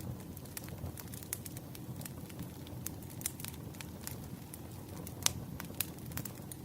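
Campfire burning with a steady low rumble and frequent irregular sharp crackles and pops of burning wood, one louder pop about five seconds in.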